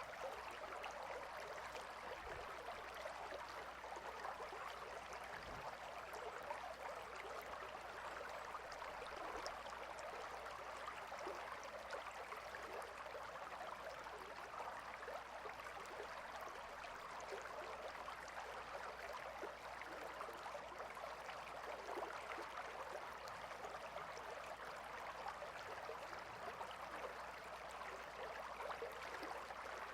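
Gentle river water flowing in a steady, even rush with fine trickling detail.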